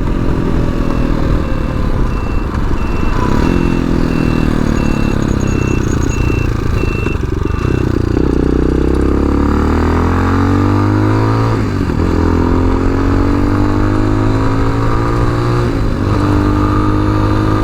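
Tao Tao TBR7 dual-sport motorcycle engine running under way, its note climbing with the revs and breaking briefly about 3, 12 and 16 seconds in as the gears change.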